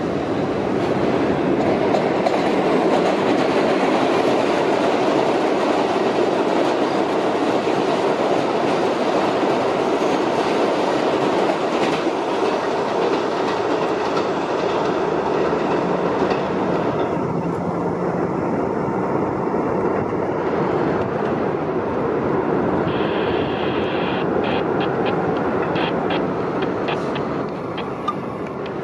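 New York City Subway train running past on the IRT Broadway Line: a loud, steady rumble of wheels and traction motors on the rails. A high whine and a quick run of clicks come in over the last few seconds as it draws away.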